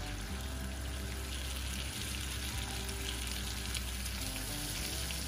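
Thin beef steaks frying in melted butter in a pan, a steady sizzle.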